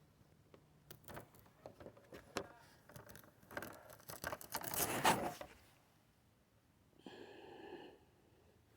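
Clicks, knocks and rustling as an air purifier's cover and disposable pre-filter are handled and pulled out, building to a louder scraping rustle about halfway through. Near the end a steady buzzing tone lasts about a second.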